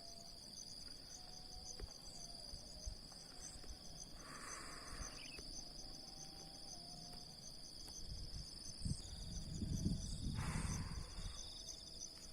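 Insect chorus: a steady high buzz with a fast pulsing trill above it. Low rumbles come in from about nine seconds in.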